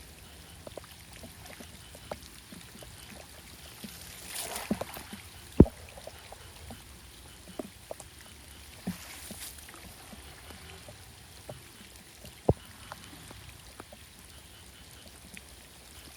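Water splashing and trickling, with two brief splashes and scattered small clicks. Two sharp knocks stand out, the louder about five and a half seconds in and the other about twelve and a half seconds in.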